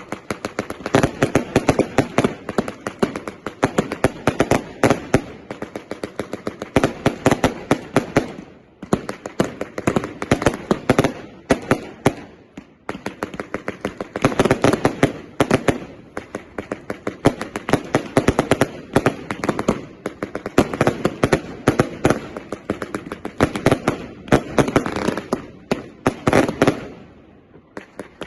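A 200-shot firework cake firing: a rapid, continuous barrage of sharp shots and cracks, many a second, thinning briefly about nine and twelve seconds in and again near the end.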